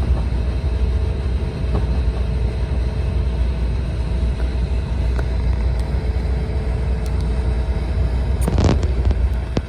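Cabin noise of an E4 series Shinkansen running at speed: a steady deep rumble with faint steady tones over it. A brief rising swish cuts in about nine seconds in.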